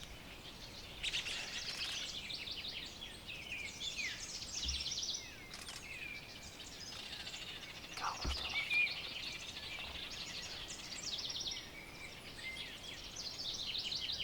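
Songbirds singing: a chorus of overlapping high chirps and rapid trills, with a brief low knock about eight seconds in.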